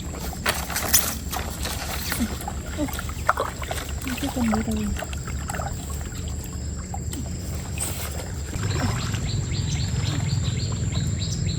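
Stream water running, with scattered splashes and knocks; the water grows louder about two thirds of the way through.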